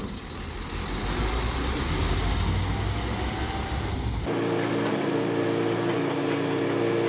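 Heavy-vehicle machinery running with a steady rumble. About four seconds in it cuts abruptly to a different steady drone with several held tones.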